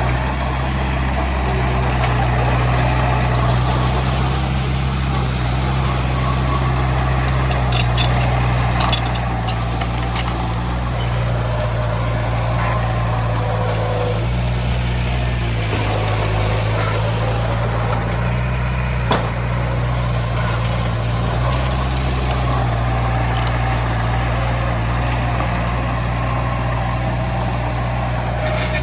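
Heavy diesel earthmoving machinery running steadily under load, its engine note shifting a little with the work. Scattered metallic clanks come through, with a cluster about a third of the way in and a single sharp knock past the middle.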